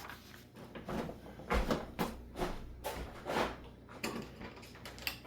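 A series of about nine short, irregular rustling knocks and scrapes, roughly half a second apart: handling noise from working with sail material and measuring.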